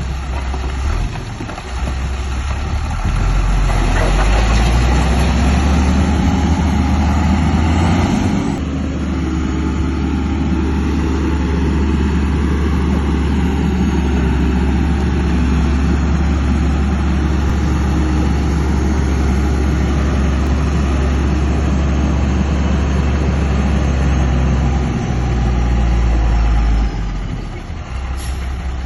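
Heavy diesel engine of earthmoving equipment running steadily, a deep drone that grows louder about three seconds in and falls away near the end.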